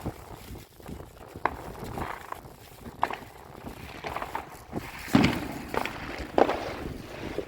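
Footsteps walking, a series of irregular short thuds about a second apart, the loudest a little after five seconds in.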